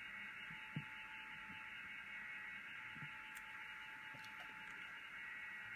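Steady electronic hiss with a thin, faint hum-like tone, and a few soft clicks.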